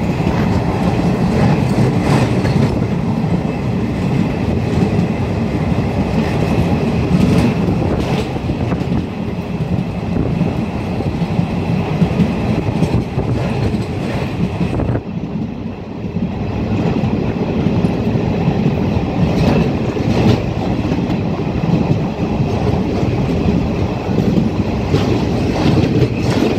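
Passenger train running at speed across a railway bridge, heard from on board by an open window or door: a steady rumble of wheels on rail with occasional clacks from the rail joints. The level dips briefly about halfway through.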